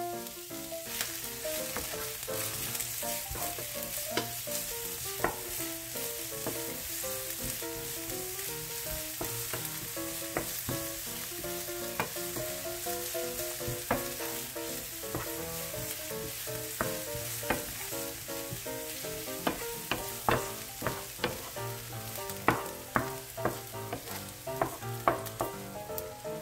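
Sliced green onions frying in hot oil in a nonstick frying pan, sizzling steadily as they are stirred, with sharp knocks of the utensil against the pan that come more often in the last several seconds.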